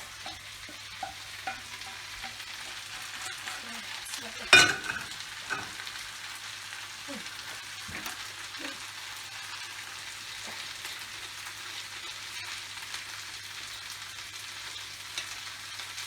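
Stir fry sizzling in a hot pan while it is stirred, the utensil knocking and scraping on the pan now and then, with one louder knock about four and a half seconds in.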